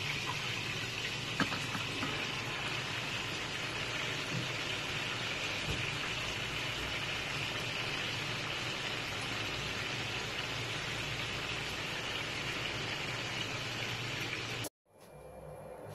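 Bitter gourd, shrimp and pork sizzling in a pan, a steady hiss with a single click about a second and a half in, cutting off abruptly near the end.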